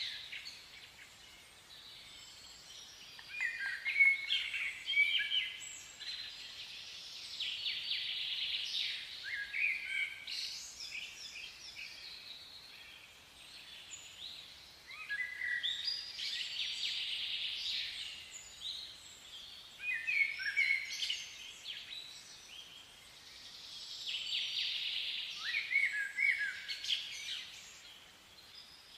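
Songbirds chirping and twittering in short clusters every few seconds, over a hiss that swells and fades.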